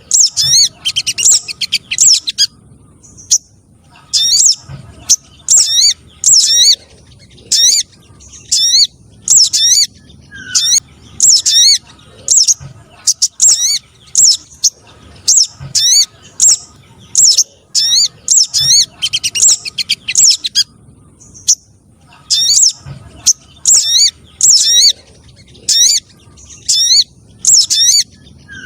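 Lure recording of sogon trotol bird calls: sharp, high chirps that rise in pitch, repeated about once or twice a second, with short pauses about three seconds in and again about two-thirds through.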